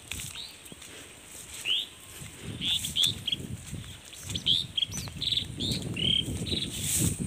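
Small birds chirping: a dozen or so short, quickly rising chirps, coming faster in the second half, over a low rumble.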